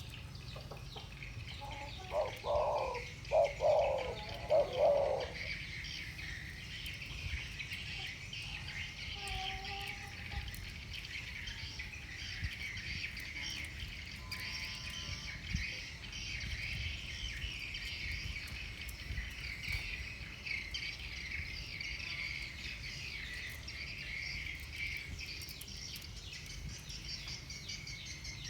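Spotted dove cooing in the deep 'thổ bầu' voice: one phrase of about four low notes a couple of seconds in, with fainter coo notes a few seconds later. A steady high-pitched chirring goes on underneath.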